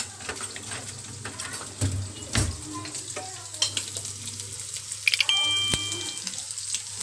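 Prawns frying in a pan on the stove: a steady sizzle with scattered crackles. There is a knock of cookware about two and a half seconds in, and a short high-pitched tone lasting about a second near the end.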